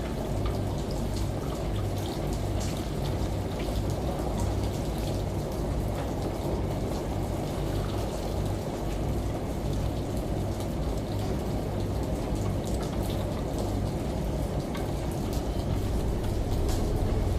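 Steady rain and running shower water, with many fine drop ticks, layered over the low, even hum of a washing machine.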